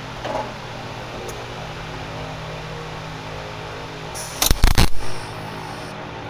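A welder striking a short tack weld about four seconds in: a loud burst of crackling arc lasting under a second. A steady low hum runs underneath.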